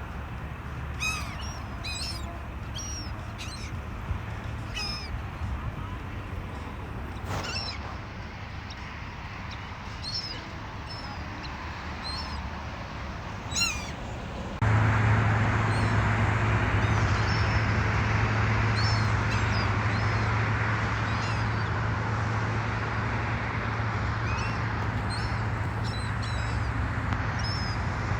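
Beach birds calling again and again with short, high, rising-and-falling cries over a steady rush of background noise. About halfway through, the background suddenly becomes louder, with a low steady hum.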